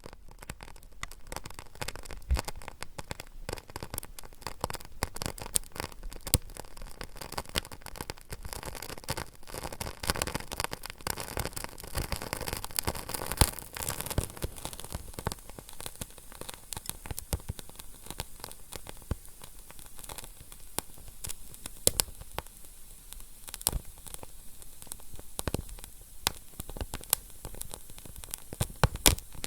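Wood fire crackling steadily, with dense irregular pops and snaps over a low hiss and an occasional louder crack.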